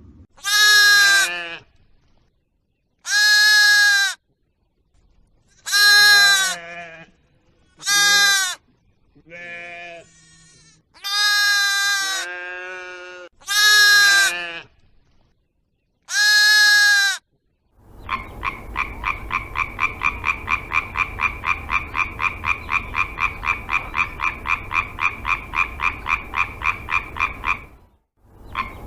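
Animal calls: eight separate drawn-out calls, each about a second long, then, from about halfway through, a steady call pulsing evenly about three times a second for some ten seconds.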